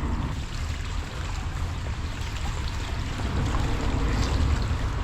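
Water trickling and splashing along the hull of a moving kayak, with a steady low wind rumble on the microphone.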